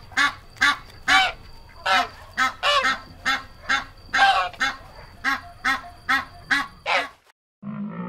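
Greylag-type domestic geese honking loudly and repeatedly, about two or three honks a second. The honking cuts off about seven seconds in. After a brief silence, a deep, low animal call begins right at the end.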